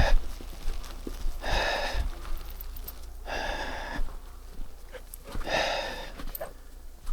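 A man breathing hard: three heavy exhales about two seconds apart, with faint clicks between them.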